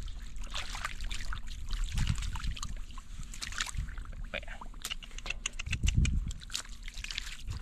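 Shallow water sloshing and trickling, with many small splashes and drips and a couple of dull thuds, one about two seconds in and one near six seconds.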